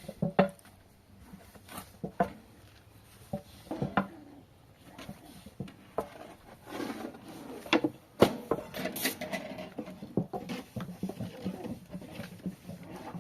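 Irregular knocks and clatter of objects being handled, with short clicks scattered throughout and busier from about halfway in.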